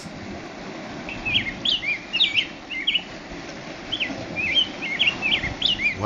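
Wild forest birds chirping: a quick, repeated string of short, high notes that rise and fall, beginning about a second in.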